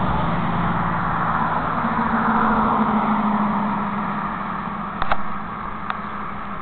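A vehicle passing by: a steady hum with tyre and road noise that swells about two seconds in, then slowly fades away. A short click sounds about five seconds in.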